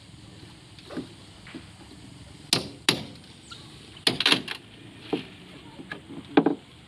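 Irregular sharp knocks, about seven in all, several close together, typical of hammering while the jerrycan holder is being built.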